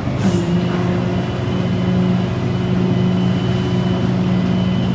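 Tow truck's engine running at a steady speed: a low, even drone with a faint high whine above it.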